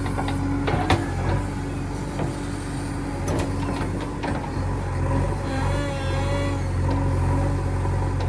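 JCB 3DX backhoe loader's diesel engine running steadily, with a few sharp knocks in the first half and a wavering whine from about five seconds in.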